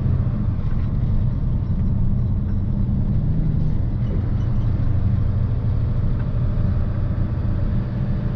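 Box truck's engine and road noise heard from inside the cab while driving: a steady low rumble.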